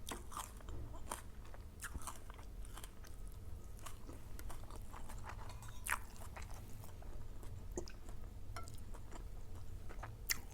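A person chewing and crunching food, with irregular crisp crunches scattered throughout.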